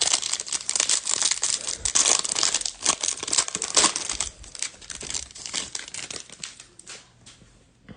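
Close-up crinkling and rustling of thin plastic as trading cards are handled, as when a card goes into a soft plastic penny sleeve. The crackle is dense and continuous, then thins out about seven seconds in.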